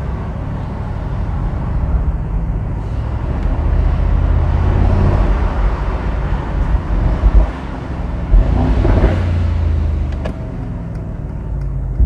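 Twin-turbo V8 of a 2022 Mercedes-AMG SL 63 running under way with road noise, swelling louder a couple of times in the middle as it pulls harder, then easing off.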